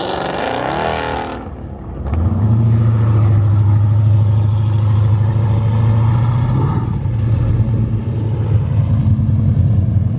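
A car engine revs up briefly, eases off, then runs at a steady low drone.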